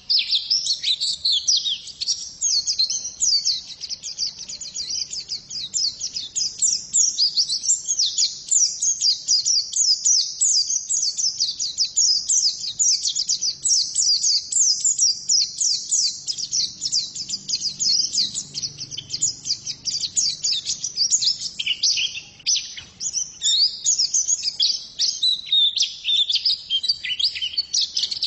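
Female white-eye (pleci) singing a long, unbroken stream of rapid, high-pitched chirps and twitters, many short falling notes a second.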